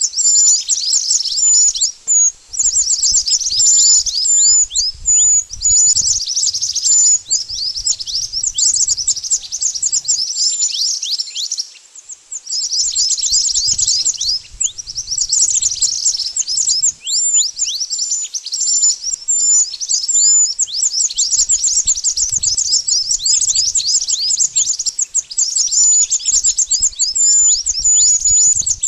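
Mantenan birds singing: fast, continuous strings of high, thin chirps, each a quick downward flick, that pause briefly about two seconds in and again about twelve seconds in.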